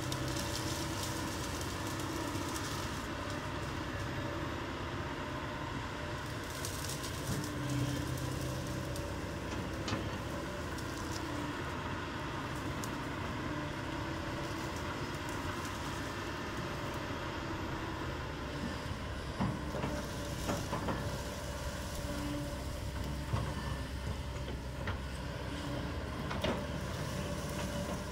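Kobelco SK200 hydraulic excavator running steadily under work, with a few sharp knocks in the second half.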